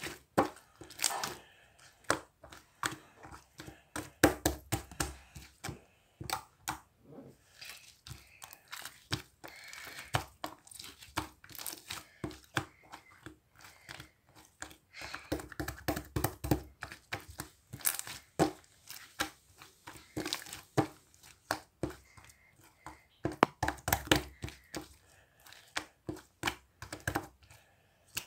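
Slime being handled, pressed and stretched by hand, making irregular sharp clicks and pops several times a second, with denser bursts of squishing about four, sixteen and twenty-four seconds in.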